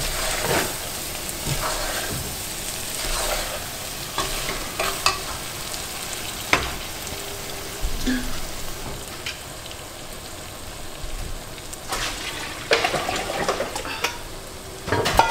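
Lemongrass and chili paste sizzling as they fry in a large metal stockpot, with a plastic spatula stirring and scraping against the pot in the first few seconds. The sizzling then goes on by itself, with a few knocks about twelve seconds in.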